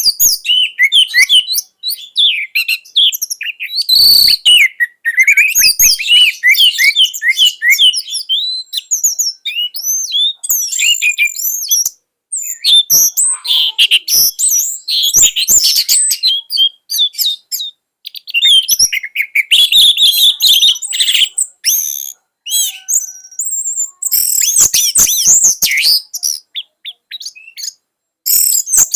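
Orange-headed thrush (anis merah) singing a loud, fast, varied song of rapid chirps and whistled notes, in runs broken by short pauses.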